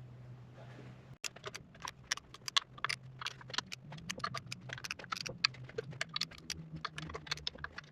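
Rapid, irregular metallic clicking and clinking of hand tools and hardware while parts are bolted onto an engine, over a steady low hum. The sound cuts out for an instant about a second in, and the clicking starts right after.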